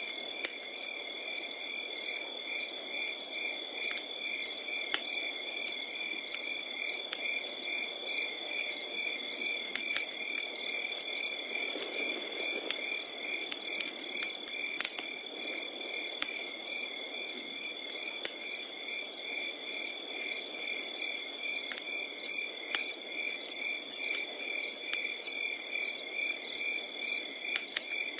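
Crickets chirping in a steady rhythm of about two chirps a second over a continuous high insect trill, with a wood campfire crackling and popping in sharp, scattered snaps over a soft low rush of flame.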